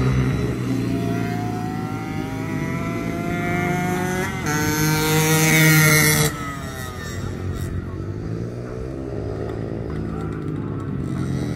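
Small race motorcycle engines at full throttle, one climbing in pitch as it accelerates and passes close by, loudest about five to six seconds in before its sound drops away suddenly. Fainter bikes follow at a distance, their pitch sliding down and back up through the corners.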